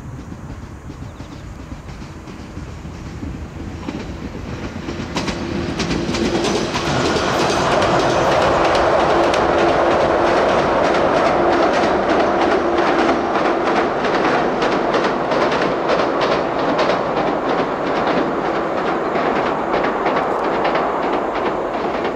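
Toyama Chiho Railroad electric train approaching and running past, growing louder over the first six or seven seconds. Its wheels then click rapidly over the rail joints as the cars go by, with a steady hum for several seconds in the middle.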